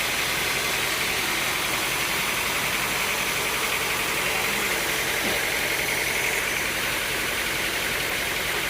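Sawmill machinery running steadily: a constant mechanical drone and hiss that holds level throughout.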